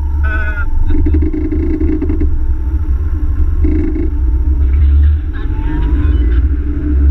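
Land Rover Tomcat's engine running with a steady low rumble as the car pulls away from a standstill and drives on, swelling under acceleration, with a faint rising whine about five seconds in.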